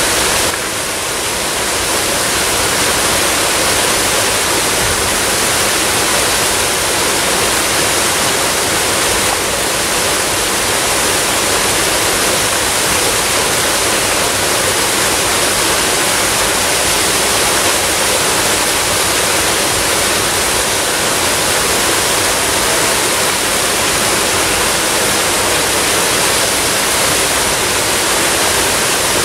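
Waterfall: water falling with a steady, dense rushing hiss.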